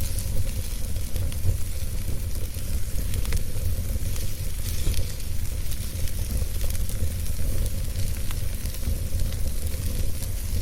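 Wood fire burning: a steady low rumble and hiss under scattered sharp crackles and pops of burning wood.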